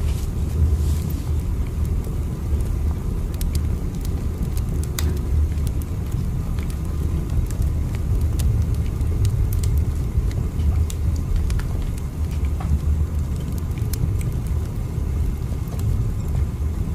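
Steady low rumble of a moving train, with faint scattered ticks over it.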